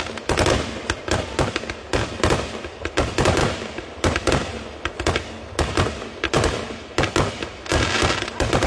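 Fireworks display going off: a rapid, irregular run of sharp bangs and crackles, several a second.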